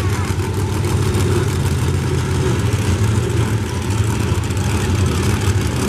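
Monster truck engines running, a steady loud low rumble with no clear revs or breaks.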